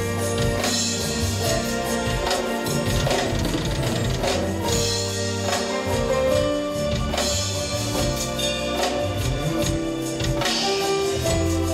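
Pop band music without vocals: drum kit keeping a steady beat over bass notes and guitar.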